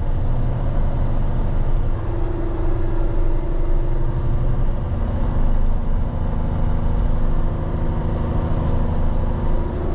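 Heavy diesel engine of a Peterbilt 389X rotator wrecker running steadily as the truck drives, its engine note shifting a little a couple of times.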